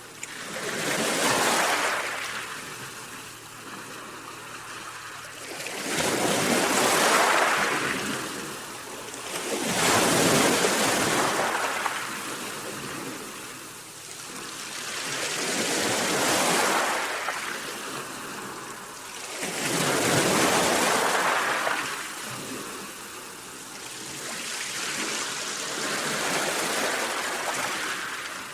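Sea waves washing in: about six surges of surf that swell and fade every four to six seconds.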